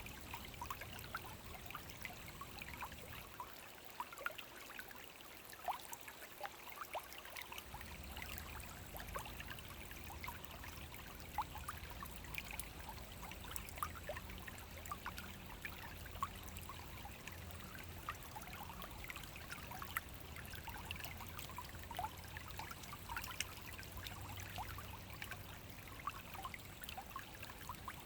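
Small forest brook flowing over stones: steady trickling water with many small splashes.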